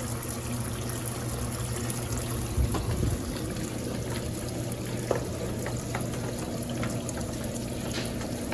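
Water pouring in through the inlet of a Consul CWS12 washing machine, filling the tub for the second rinse. A few short knocks come about three and five seconds in.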